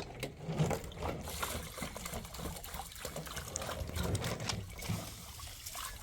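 Water trickling and splashing, with irregular small knocks and clatters.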